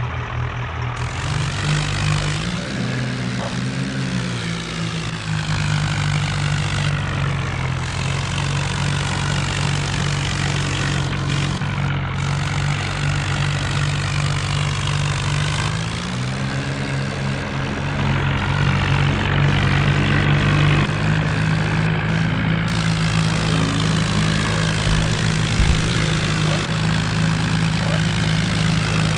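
Tractor diesel engine running steadily. The engine speed rises briefly twice, about three seconds in and again around sixteen seconds, and the sound gets a little louder in the second half.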